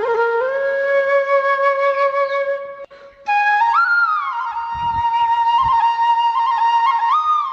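Background music: a flute playing long, held notes, breaking off briefly about three seconds in before going on with a higher phrase.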